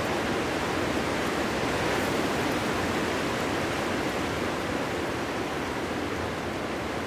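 Cold winter wind blowing through a forest: a continuous rushing noise with no gusts standing out. It swells slightly about two seconds in and eases a little over the second half.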